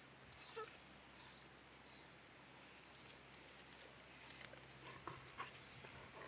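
Near silence outdoors, with a few faint, short high chirps from a small bird and some soft ticks.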